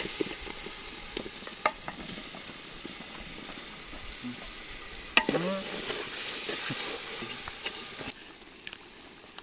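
Chicken curry masala sizzling as it fries in a large aluminium pot, being fried down until the oil separates, while a steel spatula stirs it and potato chunks are tipped in. There are a few sharp clinks of spatula on pot. The sizzling drops away sharply near the end.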